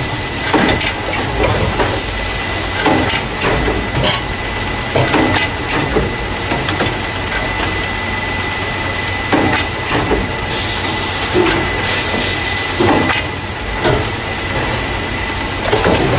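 Carton caser, the packing machine that loads paper milk and juice cartons into plastic crates, running: a steady hum with a thin high whine, irregular clacks and knocks from its mechanism, and a burst of hiss about ten seconds in.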